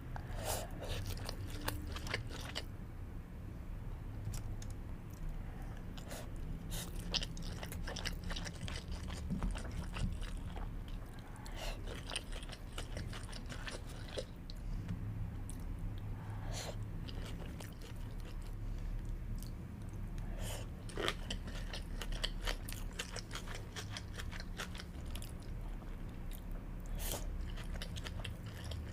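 Close-miked eating of sushi: chewing and biting with many sharp, moist clicks and small crunches, over a steady low hum.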